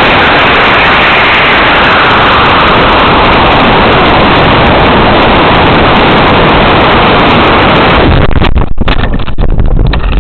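Model rocket flying on an Estes E12-6 black-powder motor: a loud, steady rushing noise that turns choppy and gusty about eight seconds in.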